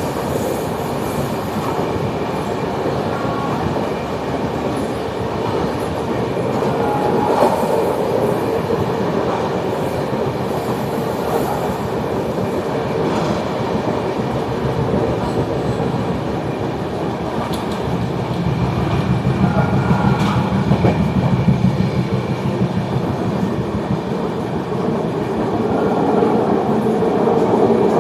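Indian Railways express train running along the track: a continuous rumble of wheels on rail with a few sharp knocks, the low rumble growing heavier about two-thirds of the way through.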